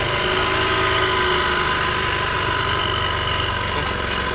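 Honda Beat FI scooter's single-cylinder engine running steadily at light throttle, with a rattling ('rotak-rotak') that the mechanic suspects comes from the CVT and puts down to worn rollers. A single sharp click about four seconds in.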